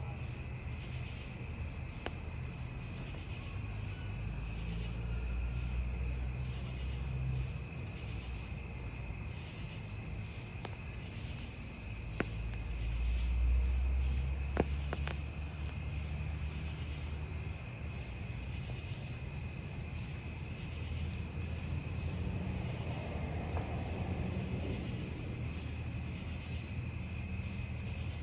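Crickets chirping in a steady trill over a burning wood campfire. The fire gives a low rumble that swells and fades, and a few sharp crackles come about halfway through.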